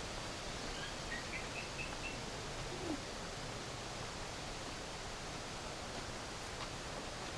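Steady outdoor noise with a bird giving a short run of high chirps about a second in.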